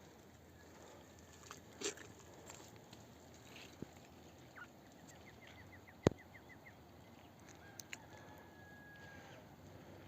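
Faint farmyard bird calls: a quick run of short high chirps about halfway through, then a longer held high note. A single sharp click near the middle is the loudest sound.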